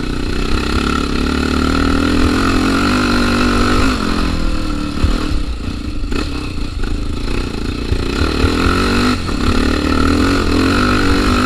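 Single-cylinder Honda Tornado trail motorcycle engine running steadily under way. Its note dips briefly a few times, around four, six and nine seconds in.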